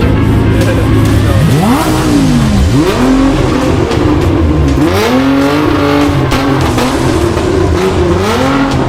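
A car engine revving hard: its pitch sweeps up sharply and drops back about four times, as in repeated throttle blips or rapid gear changes.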